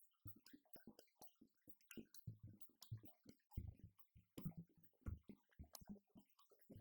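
Faint, quick, irregular stick hits and low thuds from an electronic drum kit being played.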